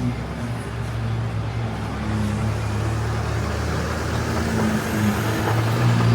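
City street traffic: a motor vehicle's engine running close by as a steady low hum, over an even wash of street noise.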